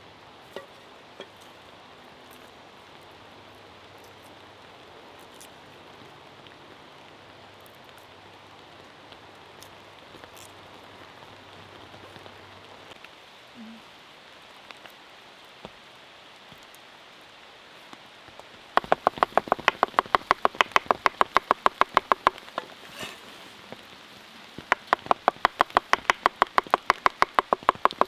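Steady patter of rain, then two runs of rapid, even knife chopping, about nine strokes a second, in the second half: steak being minced by hand into burger meat.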